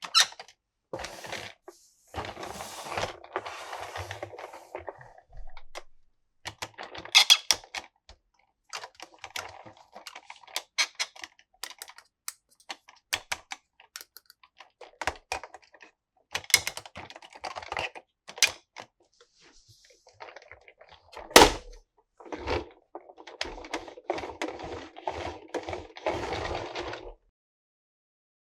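Plastic toys and their packaging being handled during an unboxing: a string of small clicks and taps, with stretches of rustling packaging and one sharp, loud knock about three-quarters of the way through.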